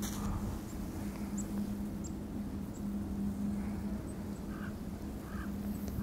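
A few short, very high chirps from small birds in the first half, with softer calls near the end, over a steady low hum and rumble.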